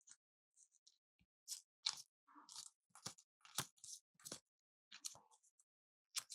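Faint, irregular clicks, taps and crinkly rustles of small plastic toy pieces and packaging being handled, about a dozen short sounds with the sharpest clicks around two and three and a half seconds in.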